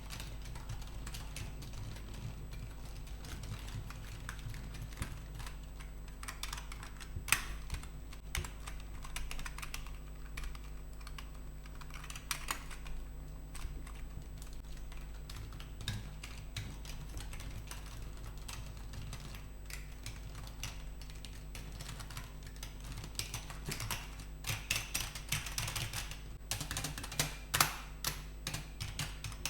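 Computer keyboard keys clicking under typing, irregular key presses with a quicker flurry of clicks near the end.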